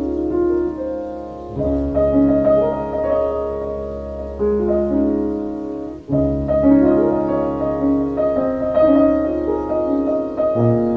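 Background piano music, gentle and slow, with sustained notes and a brief break about six seconds in.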